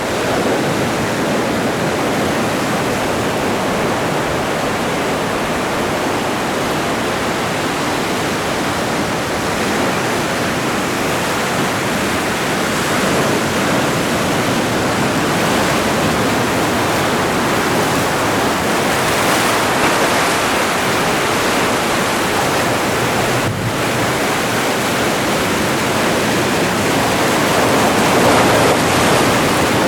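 Atlantic ocean waves washing and breaking on the shore, a steady rushing surf that swells a little louder twice, with a light hiss of wind on the microphone.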